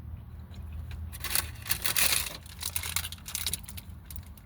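Paper fast-food packaging being handled close to the microphone: a run of small clicks and crinkles, with a louder rustle a little over a second in.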